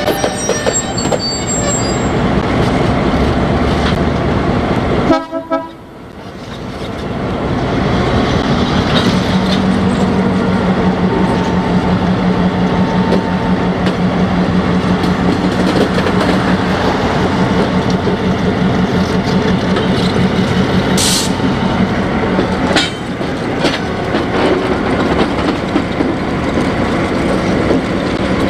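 Train of the Southern Railroad of New Jersey running steadily, with a steady low tone through the middle. The sound drops out briefly about five seconds in, then comes back gradually.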